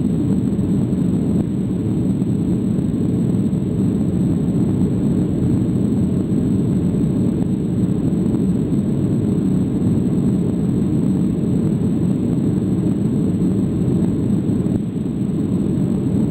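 Boeing 737 in cruise flight, heard on board: a steady, low rumble of engine and airflow noise.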